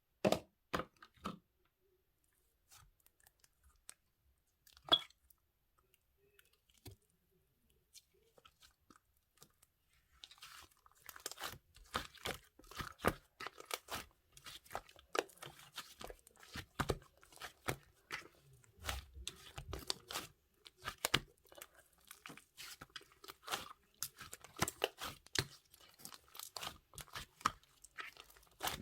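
A few isolated clicks, then from about ten seconds in, steady crunchy chewing: rapid crisp crackles of something being bitten and chewed.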